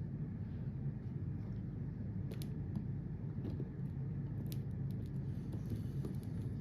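Scattered faint clicks of small die-cast toy dump trailers being handled, their beds tipped up by hand, over a steady low hum.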